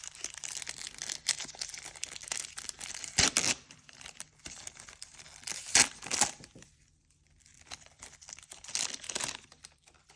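Trading card pack wrappers being torn open and crinkled by hand, in several crackly bursts, the loudest about three and six seconds in and again near the end.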